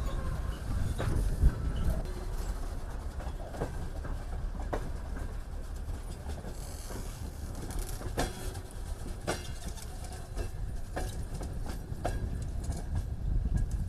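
Passenger train arriving, with a steady low rumble of the moving cars and scattered clanks from the wheels and couplings.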